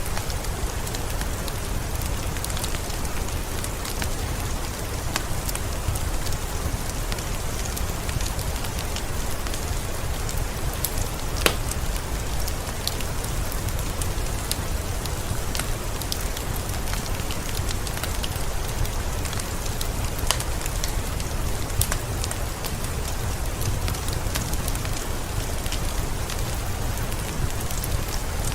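Steady heavy rain falling, a constant hiss with a low rumble beneath and many sharp drop splashes and ticks scattered through it, one crisper tick about a third of the way in.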